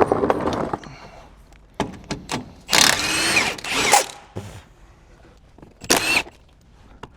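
Hand or power tool work on fasteners under a car: a few clicks, then a loud burst of about a second and a half with metallic squealing, and a shorter burst near the end.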